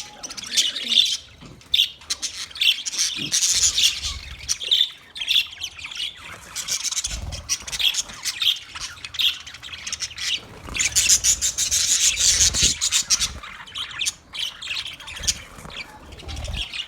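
Budgies chirping and chattering: a dense run of quick, high chirps and squawks with no pause, busiest about two-thirds of the way through.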